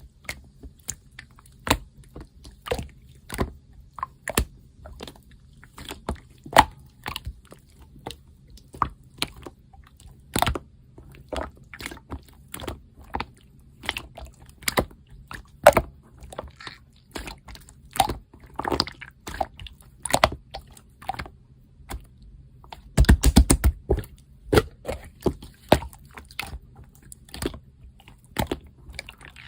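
Slime being squished and poked by hand, making irregular sharp clicks and pops, with a quick flurry of them about three-quarters of the way through.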